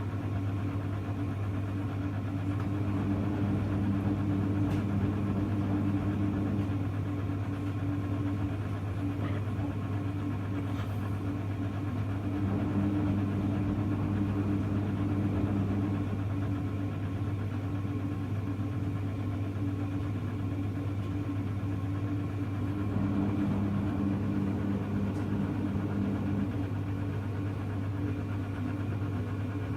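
Hoover Electra front-loading washing machine running a wash cycle. Its drum motor turns in three spells of a few seconds each, with pauses between, over a steady low hum.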